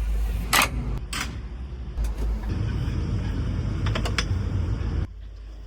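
Engine of a heavy machine, a JCB or tractor, running steadily under work, with a few sharp metallic clanks and creaks from the working machinery. The loud rumble drops away suddenly near the end.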